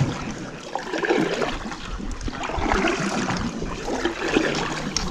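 Water sloshing and splashing around a kayak as it gets under way, in uneven swells.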